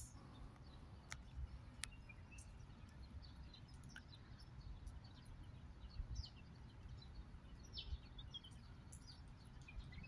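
Small birds chirping faintly: short, scattered high chirps over a low background rumble.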